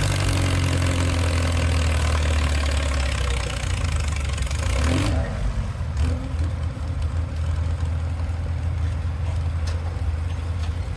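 Early-1950s Farmall tractor engine running steadily. A broad hiss over it stops abruptly about five seconds in.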